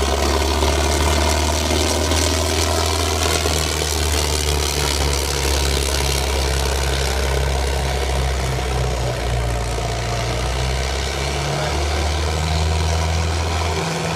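Tractor diesel engine running loudly and steadily, its pitch wavering up and down in the first few seconds.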